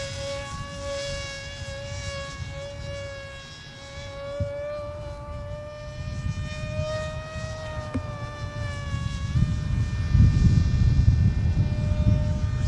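Radio-controlled model airplane's engine buzzing at a high, steady pitch, rising slightly about halfway through and settling back a couple of seconds later. Wind rumbles on the microphone, getting louder near the end.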